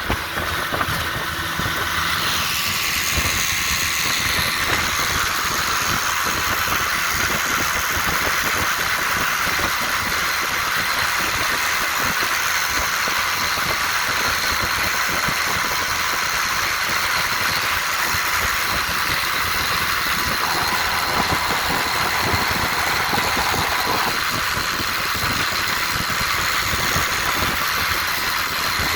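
1958 Johnson FD-12 18 hp two-cylinder two-stroke outboard motor running steadily under way, picking up slightly about two seconds in.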